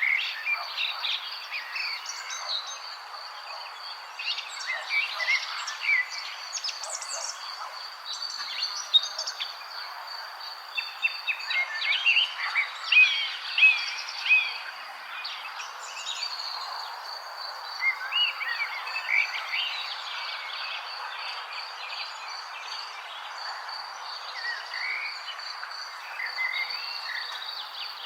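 Several wild birds chirping and calling in short, overlapping phrases, busiest and loudest about halfway through. Beneath them runs a steady high-pitched trill and a soft, even background hiss.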